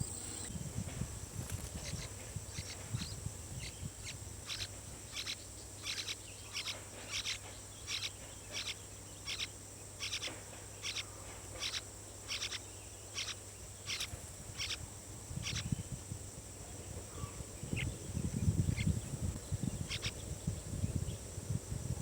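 A bird giving short sharp calls over and over, about one and a half a second, above a steady high insect drone. The calls stop about two-thirds of the way through, and low rumbling follows near the end.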